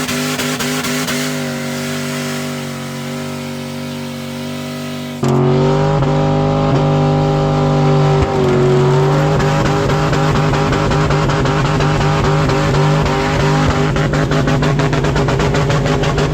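Turbocharged 6-litre engine held at high revs through a burnout, the note steady and loud, with an abrupt jump to a louder, rougher sound about five seconds in and a fast regular stutter near the end.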